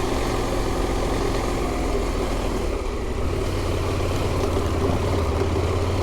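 KTM adventure motorcycle engine running steadily in second gear on a dirt trail, its low drone growing stronger about halfway through.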